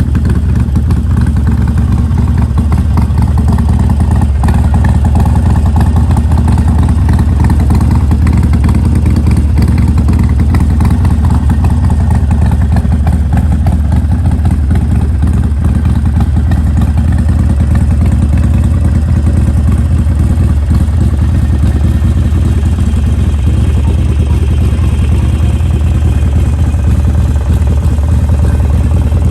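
Harley-Davidson Sportster Iron 1200's air-cooled V-twin running steadily through an aftermarket D&D Bobcat exhaust, a deep, bassy exhaust note.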